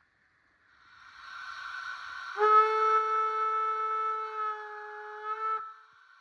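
Sound module of a Märklin 36243 H0 model of a DB class 24 steam locomotive: a steam hiss that swells, then a steam whistle held steady for about three seconds before cutting off.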